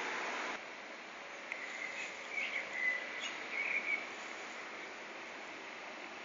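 A bird chirping, a run of short, wavering high calls between about one and a half and four seconds in, over a steady faint outdoor hiss.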